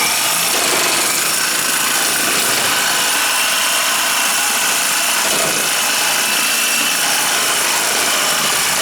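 A power tool running continuously at a steady pitch, a loud even rushing noise with a faint high whine.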